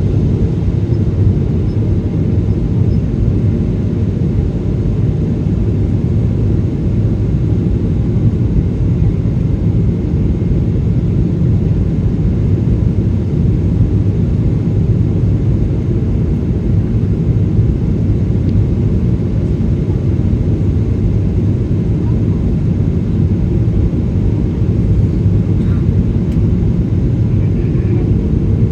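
Cabin noise of a Boeing 777-300 with Rolls-Royce engines in flight: a steady, unchanging low rumble of engine and airflow.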